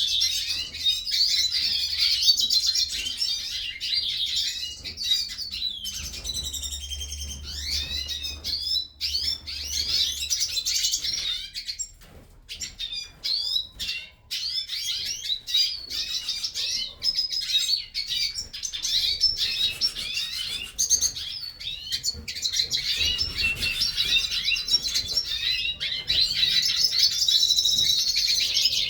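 Captive hooded siskins (Brazilian pintassilgos) singing, a high-pitched, fast twittering song with rapid trills and chirps, the birds beginning to warm up into full song. It goes on almost without a break, dropping briefly about twelve seconds in.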